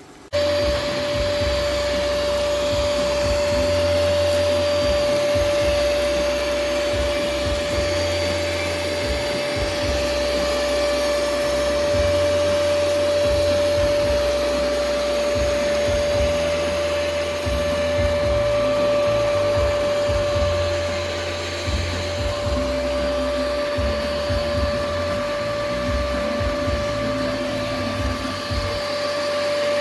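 ECOVACS DEEBOT T80 Omni robot vacuum's suction motor switching on abruptly and running steadily, with a high steady whine over a rough, uneven low rumble.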